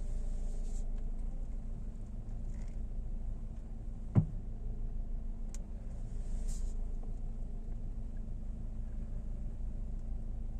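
A car's steady low running hum, with one sharp, loud knock about four seconds in and a couple of faint clicks after it. The owner takes the knock for a fault in the steering rack.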